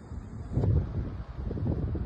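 Wind blowing in gusts, a low buffeting that grows louder about half a second in.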